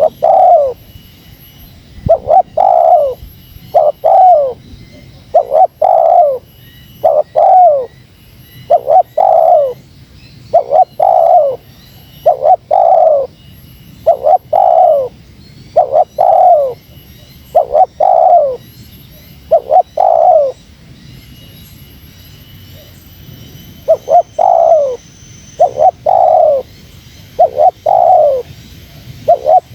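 Spotted dove (terkukur) cooing in fast, tightly repeated phrases, about one coo a second and often in close pairs, each note dropping slightly in pitch, with a pause of about three seconds past two-thirds through. It is the pressing challenge call of a male dove that provokes wild rivals.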